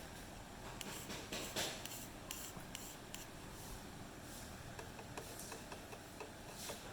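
Short scraping and rubbing sounds of hand work on small parts, followed from about five seconds in by a run of light, fairly regular ticks, two or three a second.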